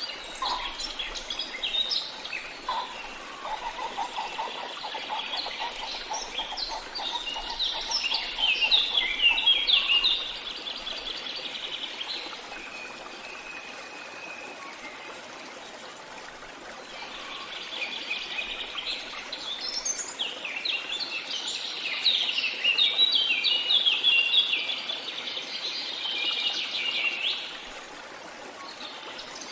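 Songbirds singing in two long bouts of rapid chirps and trills, with a quieter spell between them, over a soft steady background hiss.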